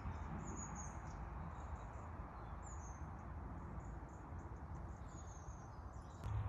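Outdoor ambience: a steady low rumble of noise with a few short, high bird chirps falling in pitch, heard three times.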